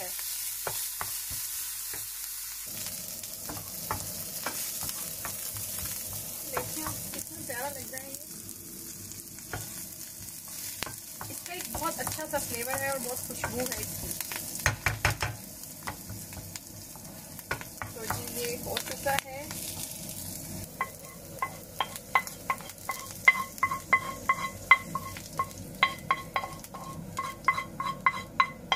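Green chillies and parsley sizzling in hot oil while being stirred in a pan. From about two-thirds of the way through, the spoon knocks against the pan in a quick run of ringing clinks.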